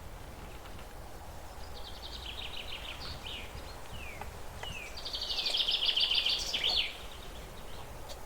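Small birds chirping in rapid trills, in two longer bursts with a few short falling notes between them, over a steady low background rumble.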